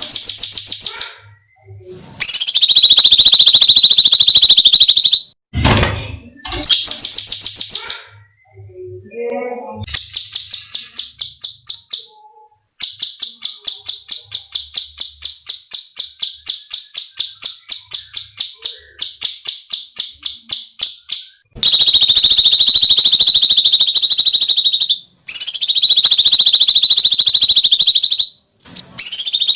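Cucak cungkok songbird calling in piercing high shrieks, each held for one to three seconds. In the middle comes a long run of rapid repeated sharp notes, about five a second.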